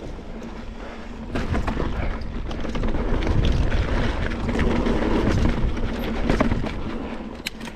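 Mountain bike riding over slickrock: wind rumble on the microphone with tyre noise and many small clicks and rattles from the bike, growing louder about a second and a half in.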